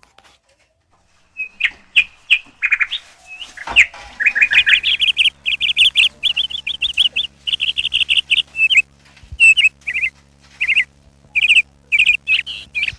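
A bird chirping loudly in short, quick calls starting about a second and a half in, with a fast unbroken run of chirps in the middle. A faint steady low hum runs underneath from about four seconds in.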